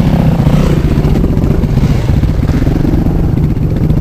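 Off-road motorcycle engine running at a fairly steady pitch.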